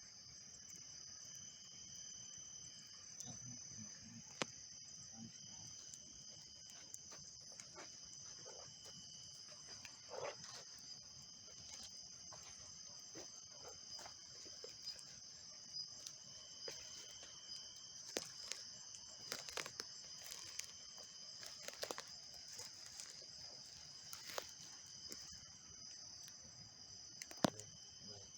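Crickets and other night insects singing steadily in several high, continuous tones, with scattered sharp crackles and pops from a burning dry-wood campfire, busiest in the second half.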